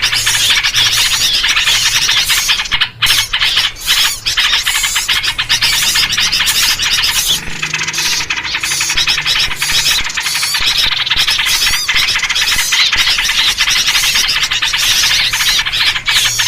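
Dense, continuous chatter of many small birds calling excitedly over one another, an agitated-flock lure recording built on yellow-vented bulbul (trucuk) calls.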